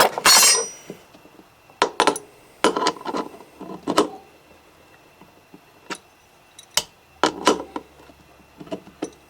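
Hand tap cutting threads in a PVC cylinder, turned in short strokes: irregular scrapes and clicks of steel on plastic and tool handling, the loudest just after the start.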